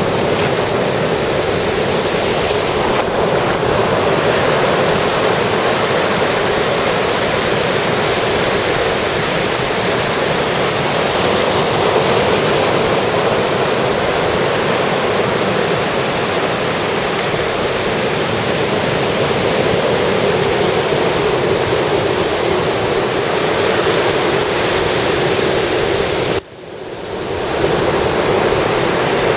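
Ocean surf washing onto a beach: a steady, loud rush of waves. About three-quarters of the way through it cuts out abruptly for a moment, then fades back in.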